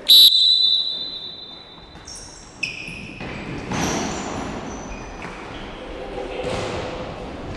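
A loud sharp hit with a high ringing tone fading over about two seconds, followed by ball play and brief high calls echoing in a sports hall.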